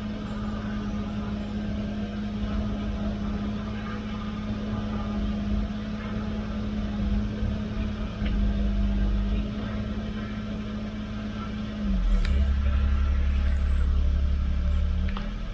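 Komatsu PC16 mini excavator's diesel engine running steadily. About twelve seconds in its pitch dips briefly and the engine grows louder for a few seconds, as under a hydraulic load.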